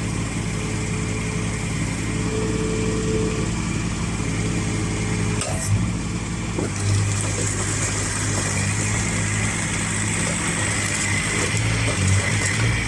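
Small Kubota diesel engine of a 1.5-tonne mini excavator running steadily, with a couple of short knocks around the middle.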